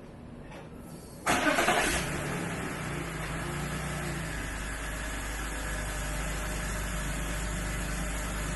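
Car engine starting: it fires about a second in with a brief loud flare, then settles into a steady idle as it warms up.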